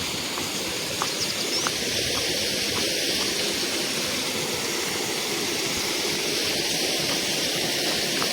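Waterfall pouring, a steady continuous rush of falling water, with a few faint clicks about a second in.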